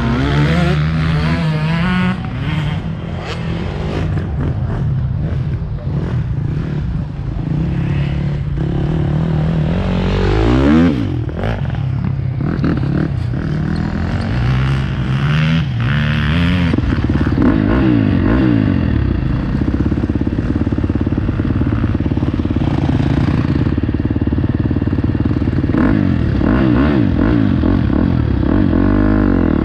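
Motocross dirt bike engine being ridden hard, heard up close from an onboard GoPro. Its pitch repeatedly rises and falls as the throttle opens and closes through the track.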